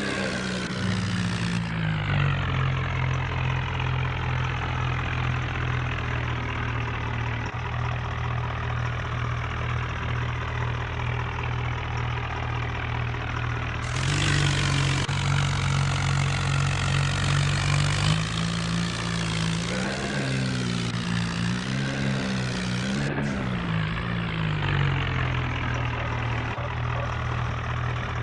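New Holland tractor's diesel engine running steadily. Its pitch drops about two seconds in, rises again around the middle, then revs up and down a few times before settling.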